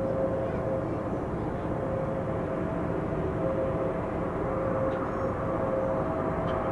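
Jet airliner engines running, a steady rush of noise with a faint steady whine in it.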